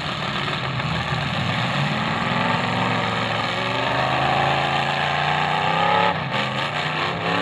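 Demolition derby car engines revving hard under load as the cars shove into one another. The pitch climbs steadily for several seconds, then falls away about six seconds in.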